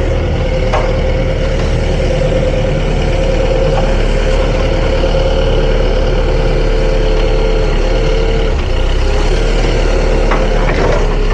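Hyster H100FT forklift running: a steady engine drone with a continuous whine over it, which wavers slightly near the end.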